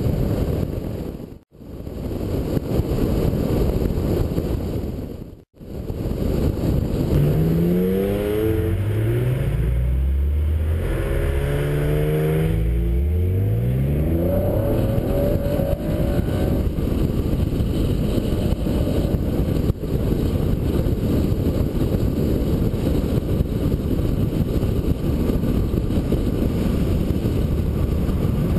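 Acura NSX's V6 accelerating, its note rising in pitch through several gears about a quarter to half of the way in, over a steady rush of wind and road noise. The sound drops out briefly twice near the start.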